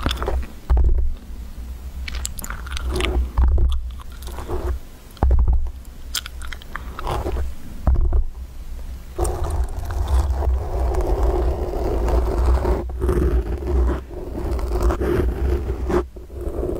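Fingers grabbing and scratching a microphone up close: irregular bursts of scraping with heavy low handling rumble and brief gaps, turning into steadier rubbing about halfway through.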